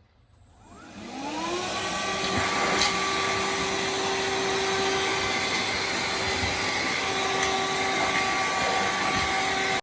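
VacLife cordless handheld vacuum cleaner switched on, its motor spinning up over about a second with a rising whine, then running steadily with a whine over rushing air. It stops suddenly near the end.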